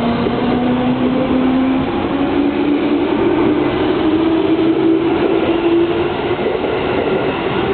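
Electric commuter train pulling out and gathering speed, its motor tone rising in steps, over the steady noise of wheels running on the rails.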